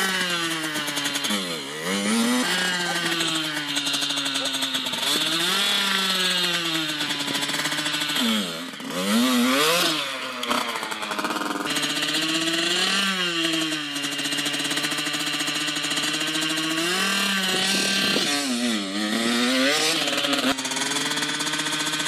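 Motocross bike engine revving, its pitch climbing and dropping again and again every couple of seconds as the throttle is worked.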